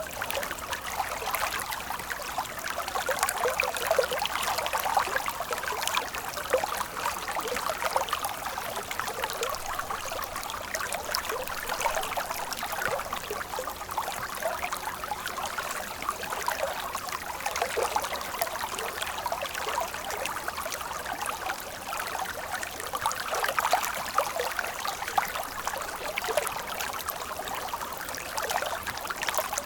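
Stream water flowing steadily, with a constant babble of small gurgles and splashes and little deep rumble.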